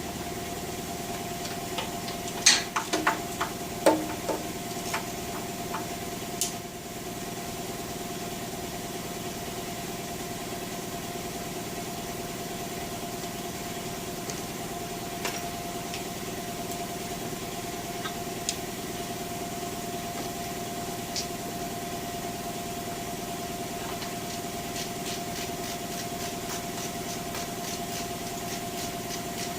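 Hand wrench clinking on metal several times in the first few seconds while the last oil pan bolts come out of a small-block Chevy 350, over a steady background hum. Near the end there is a run of light, rapid ticks.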